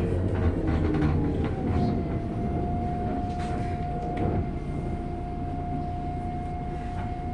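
Interior of a MAZ-105 bus under way: the engine and road rumble, with a steady whine that slides down in pitch about a second in and then holds level.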